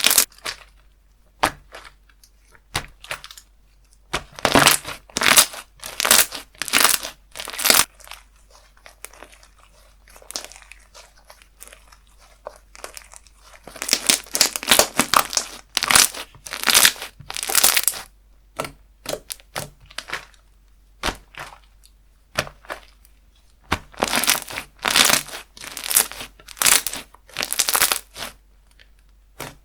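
Slime being squeezed and pressed by hand, giving crinkly, crackling pops. It comes in three main bursts of rapid crackles with scattered clicks between.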